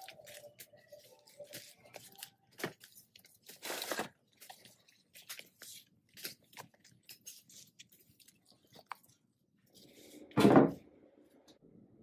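Scattered small clicks, scrapes and crunching handling noises, with a brief rasping burst about four seconds in and one loud thump about ten and a half seconds in.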